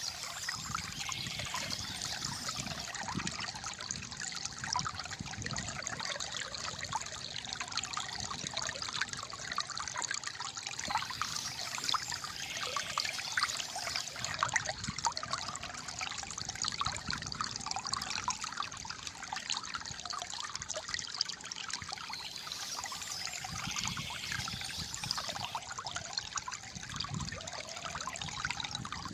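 Shallow flowing water trickling and gurgling steadily.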